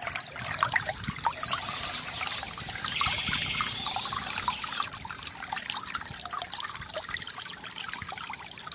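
Small stream trickling and burbling over stones, a steady wash of water full of small plinks and splashes.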